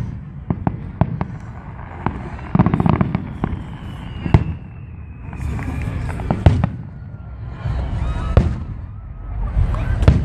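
Aerial fireworks display: a rapid series of sharp bangs from bursting shells, with a stretch of dense crackling about two and a half seconds in and a long whistle slowly falling in pitch around the middle.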